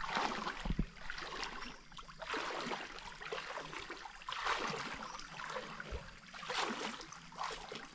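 Water sloshing and splashing in a lake's shallows, in soft swells about every two seconds.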